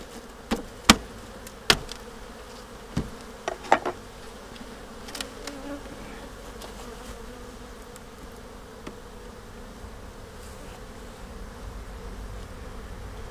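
Honeybees buzzing steadily around an opened hive. A few sharp knocks come in the first four seconds, then only the buzzing goes on.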